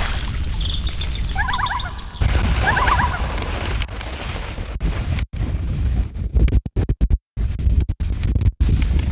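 Strong wind buffeting the microphone, a low rumbling rush, with a small bird chirping in two short trilled bursts over it in the first couple of seconds. Later the wind noise cuts out abruptly to silence several times.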